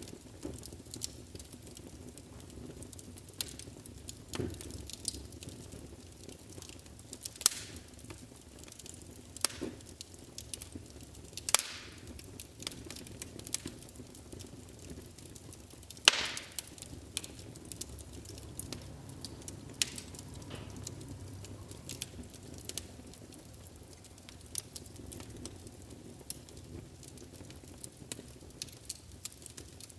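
Wood fire burning in a fireplace, crackling with irregular sharp snaps and pops over a steady low rumble of the flames. Two pops near the middle are louder than the rest.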